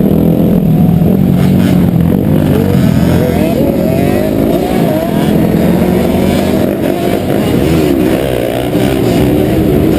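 Several dirt bike engines revving at once, their pitches climbing and falling over one another as the bikes throttle up and ease off.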